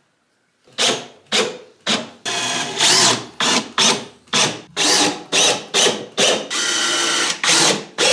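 Power drill run in short trigger pulses about twice a second, with two longer runs of about a second each.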